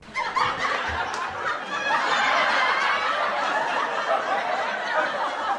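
Canned audience laughter: a crowd laughing together at a steady level, starting right after a spoken punchline.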